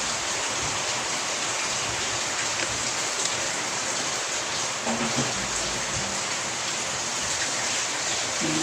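Steady, even hiss like rain, with a few faint short sounds about five seconds in and near the end.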